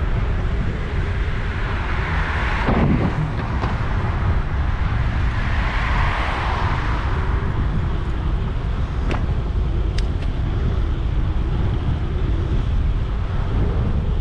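Wind buffeting the microphone over city street traffic, with vehicles swelling past a few seconds in and again around the middle, and a couple of short clicks later on.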